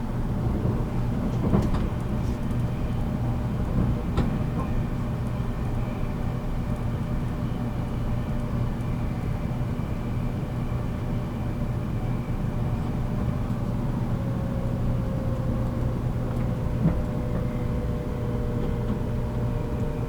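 Interior running sound of a JR Kyushu 783 series electric train, heard from motor car MoHa 783-13: a steady low hum with a few knocks from the track. A faint tone slowly falls in pitch through the last third.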